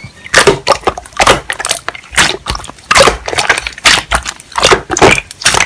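Slime being squeezed and poked by hand: a run of short, sharp squishing pops, about one or two a second.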